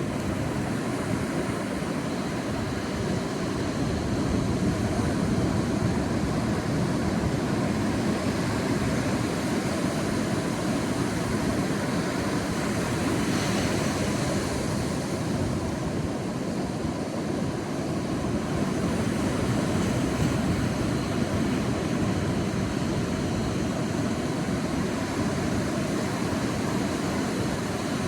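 Sea waves washing on a beach: a steady rushing wash with a swell of surf around the middle.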